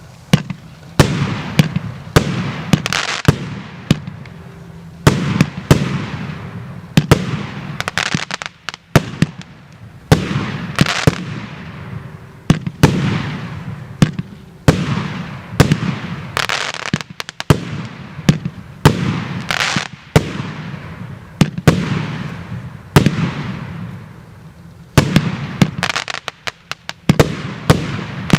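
A 36-shot 1.2-inch firework cake (battery) firing shot after shot, about one a second. Each shot is a sharp bang followed by a fading hiss.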